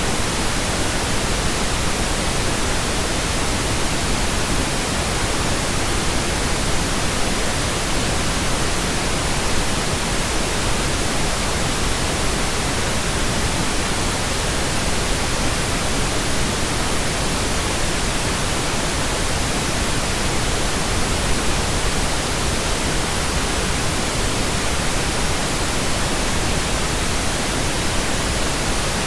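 Computer-generated pink noise: a steady, even hiss spread across all pitches, unchanging throughout.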